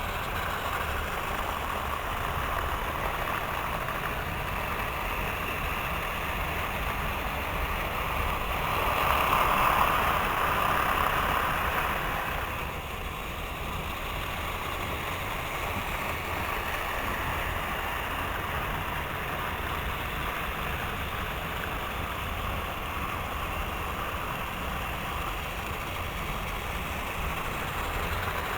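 Model trains running on track: a steady whir of small motors and wheels on rails, swelling louder for a few seconds around the middle as one passes close.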